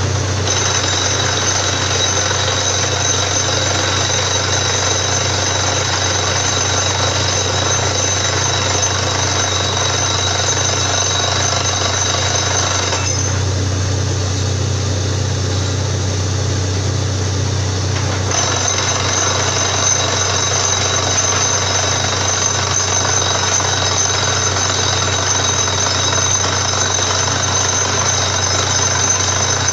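Borewell drilling rig running steadily: a heavy engine hum under a loud, continuous drilling din. The higher-pitched drilling noise drops away for about five seconds midway, leaving mostly the engine hum, then comes back.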